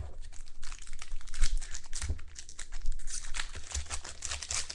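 Foil trading-card pack wrappers crinkling and tearing as packs are ripped open by hand: a dense, irregular crackle, with a few soft knocks of handling.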